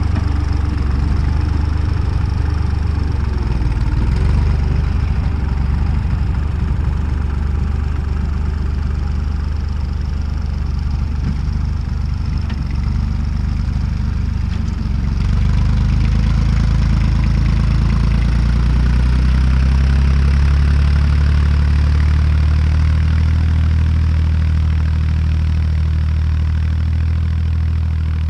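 Tractor diesel engine running steadily while pulling a cultivator through a field. About halfway through, its note shifts and grows a little louder.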